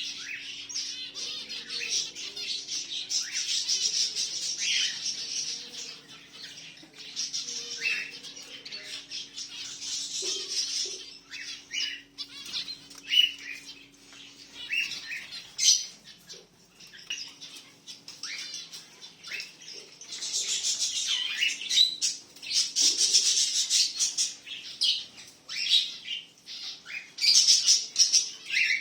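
Many small aviary birds chirping and chattering constantly in short, high, overlapping calls, over a faint steady hum.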